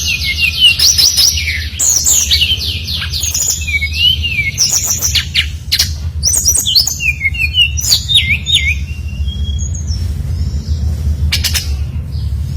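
Brown-chested jungle flycatcher (SRDC) singing: short, fast phrases of sharply gliding high whistled notes, broken by brief pauses, with a few clicks among them, over a steady low hum. The song thins out during the last few seconds.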